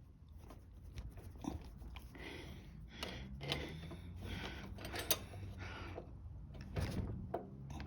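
Scattered clicks, knocks and rustling of hands and tools working a small lawn mower engine's carburetor loose.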